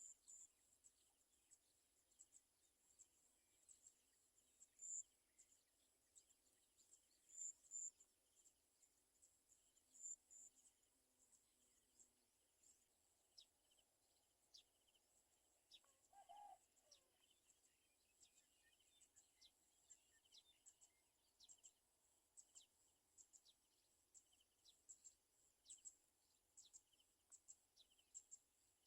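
Faint, high-pitched bird chirps, short and repeated, sparse at first and coming more often in the second half, over a very quiet outdoor background.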